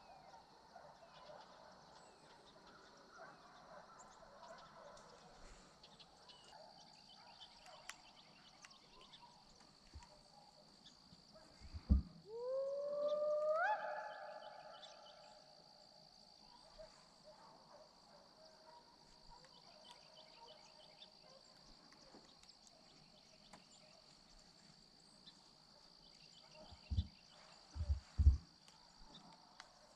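A hound gives one long howl, about twelve seconds in, that rises in pitch and then holds. A steady faint high hum runs underneath, and a few low thumps come near the end.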